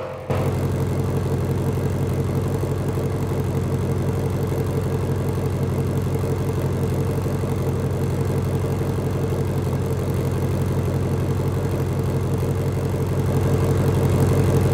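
2021 Ford Mustang Shelby GT500's supercharged 5.2-litre V8 idling steadily with an even, low-pitched hum. It starts abruptly a moment in.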